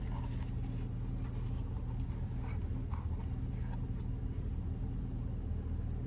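A steady low engine hum, with a few faint clicks and knocks during the first four seconds.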